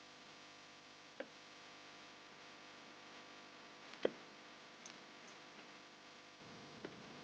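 Faint steady background hiss broken by three short, sharp clicks: one about a second in, a louder one about four seconds in, and a softer one near the end.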